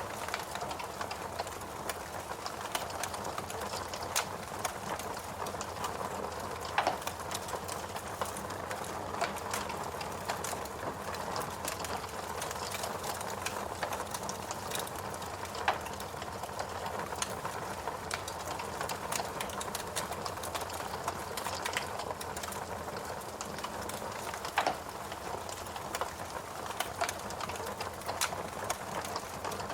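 Fireplace crackling: a steady soft rushing dotted with many small snaps, and a few louder sharp pops.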